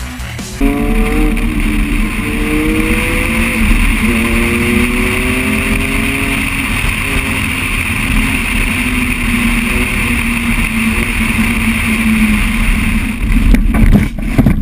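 A motor vehicle engine accelerating, its pitch climbing and dropping back several times as it shifts up through the gears, over steady wind and road rush. Near the end come a few sharp knocks.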